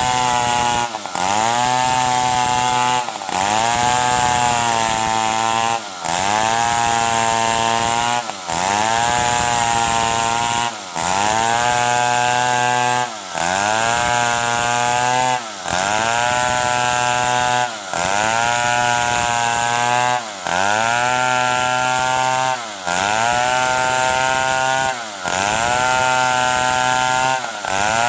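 Stihl 070 chainsaw, a large two-stroke, running at high revs while sawing wood. About every two and a half seconds its pitch briefly dips and climbs back, in a steady repeating rhythm.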